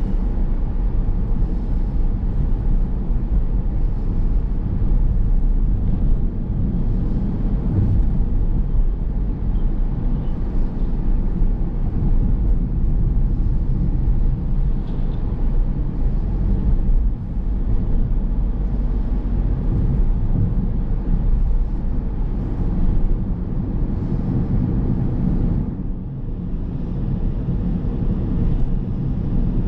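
A car driving on a road: steady low rumble of engine and tyre noise, dipping briefly near the end.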